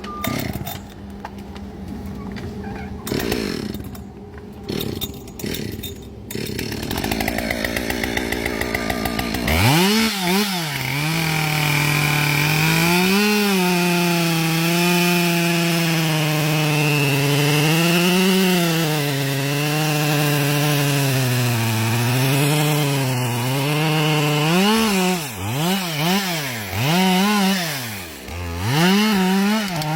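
Two-stroke chainsaw engine running at high revs, cutting wood, its pitch dipping and recovering as the chain takes load, with quicker repeated dips in the last few seconds. For the first third there is a rougher, unsteady noise before the clear engine note comes in.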